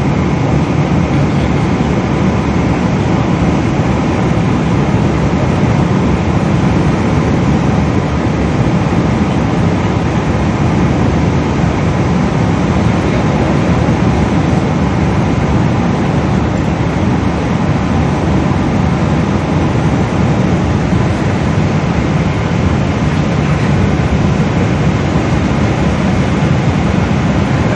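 Steady, even cabin noise inside a Boeing 777 airliner: the rush of its jet engines and the air around the fuselage, with no change in level.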